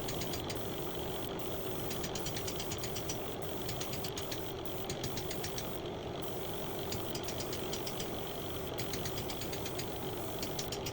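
A power tool's small motor running steadily, with a fast clicking rattle over it.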